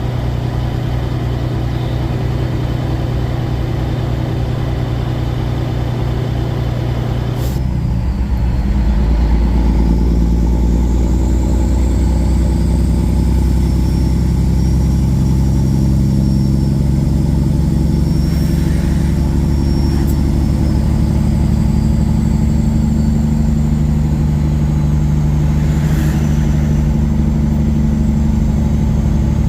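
Kenworth semi truck's diesel engine running steadily; about eight seconds in the engine note changes and gets a little louder, as if under more throttle, then stays level. A faint thin high whistle rises and falls over it.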